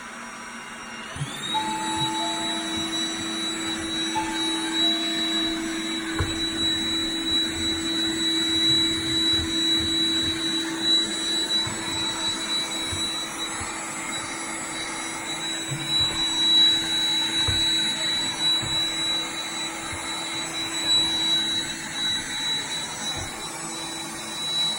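Roomba 985 robot vacuum starting up: about a second in its vacuum motor spins up to a steady high whine, with a few short beeps near the start and scattered low knocks while it runs.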